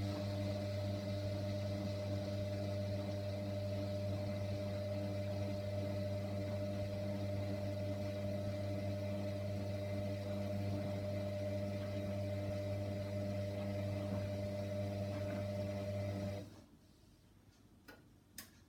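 Hoover washer dryer running mid-wash with a steady low hum that cuts off suddenly after about sixteen seconds, followed by two faint clicks.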